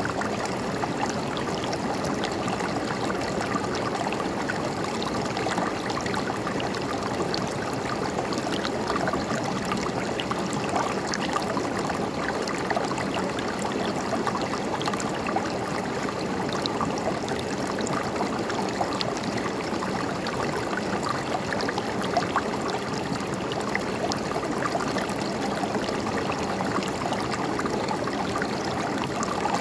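A river's water running steadily over rocks, a continuous rushing with small splashes and gurgles scattered through it.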